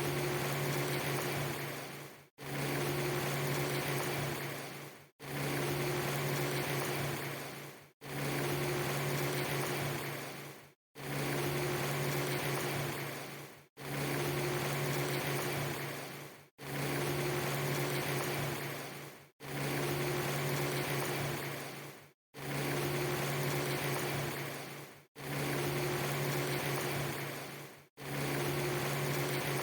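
Steady rushing noise with a low mechanical hum, a short clip looped over and over: about every three seconds it fades, cuts to silence for an instant and starts again.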